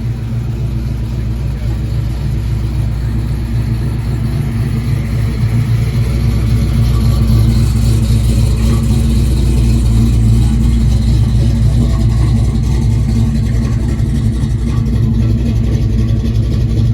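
Car engine running steadily with a low rumble, growing louder over the first several seconds and then holding.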